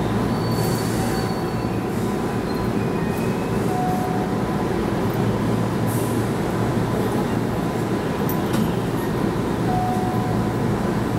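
Steady hum and rumble inside the driver's cab of a Keihan 13000-series electric train standing at a station platform, with a few faint, brief high whistling tones now and then.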